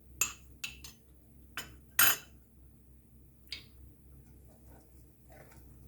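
A spoon clinking against a pan and bowl about six times in quick, uneven succession as chopped nuts go into the milk, the loudest clink about two seconds in.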